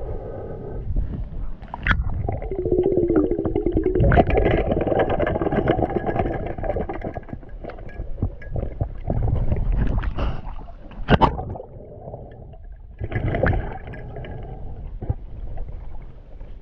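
Muffled water noise with gurgling around a camera in the water while spearfishing, rising in a louder stretch a couple of seconds in and broken by a few sharp knocks.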